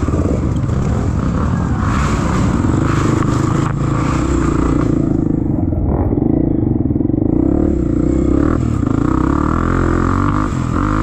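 Off-road trail motorcycle engine running steadily under throttle, with scraping and clatter from riding over rough ground. Around the middle, the hiss above the engine note drops away for about two seconds.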